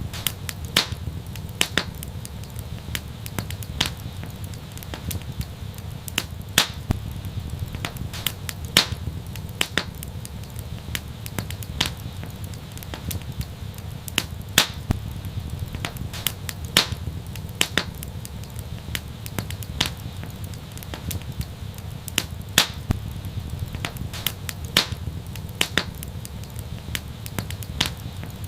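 Wood fire in an outdoor fireplace crackling, with frequent irregular sharp pops over a low steady rumble.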